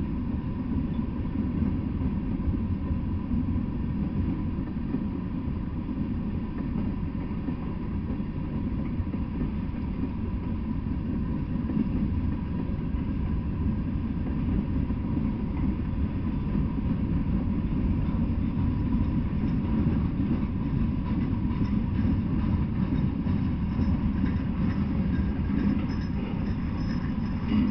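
A freight train's cars rolling past at steady speed: a continuous low rumble of steel wheels on rail, with a faint steady whine running under it.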